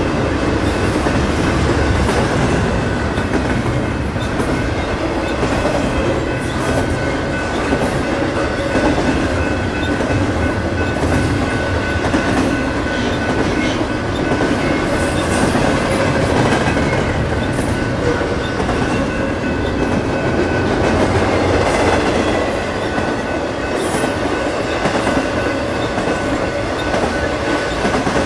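A train running past close by: a steady loud rumble of wheels on rail, with scattered clicks from the rail joints and a thin steady high-pitched tone over it.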